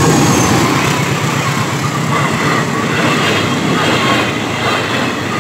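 Passenger train passing close by, its wheels running over the rails with a steady rumble and clatter.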